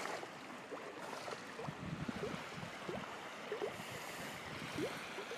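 Faint, steady outdoor rushing noise of wind and water, with a few short, faint rising squeaks scattered through.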